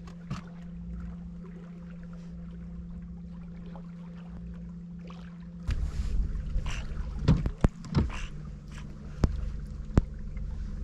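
A boat motor runs with a steady low hum. About halfway through it becomes louder and rougher, with water noise and a few sharp knocks on the hull.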